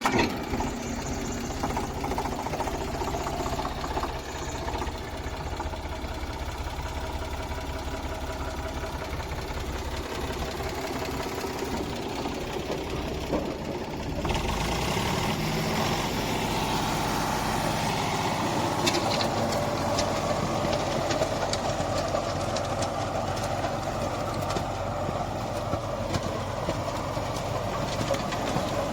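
Eicher diesel tractor engine running steadily with a PTO-driven rotavator attached, as the rotavator is started to till the field. About halfway through the sound shifts and grows a little louder and rougher.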